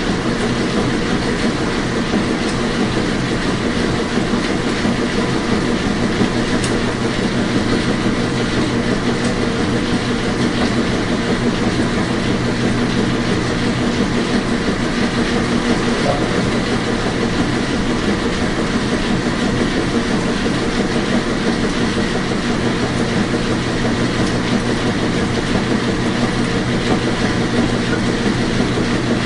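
Washing machine running, a steady hum and rumble.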